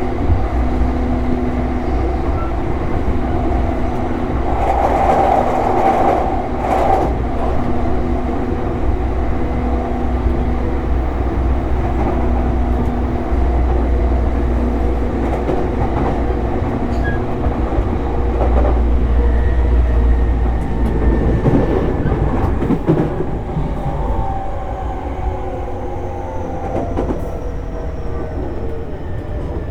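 E233-series electric train running at speed, heard from inside the car: a steady rumble of wheels on rail, with steady motor tones that sink slightly in pitch in the second half. Wheels click over rail joints a few times.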